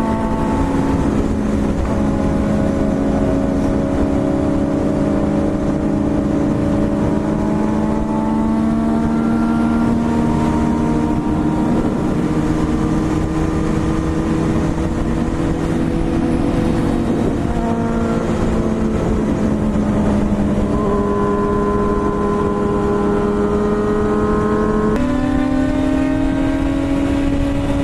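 BMW S1000RR inline-four engine running under way. Its note sinks slowly, then climbs again, and jumps abruptly in pitch a few seconds before the end.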